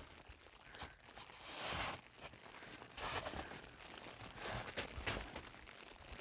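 Footsteps crunching in snow: a few uneven crunching steps, roughly a second apart.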